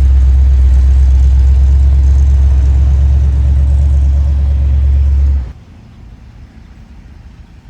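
A vehicle engine running with a loud, steady, deep rumble that cuts off suddenly about five and a half seconds in.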